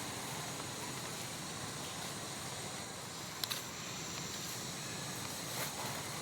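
Steady outdoor background noise with a faint, even insect drone, and a couple of short clicks, one about three and a half seconds in and a softer one near the end.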